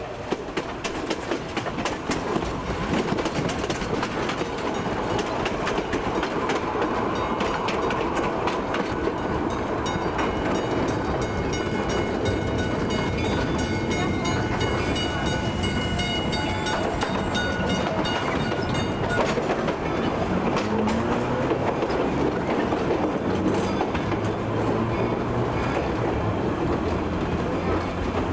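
Railway coach rolling behind a steam locomotive: a steady rumble with frequent clicks of the wheels over rail joints, and a high steady ringing tone for several seconds in the middle.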